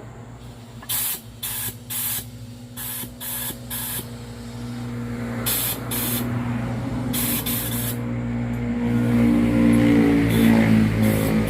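Komatsu D31P bulldozer diesel engine running, being test-run after the transmission rebuild. It revs up in the second half. Many short, sharp hisses of air or spray come over it.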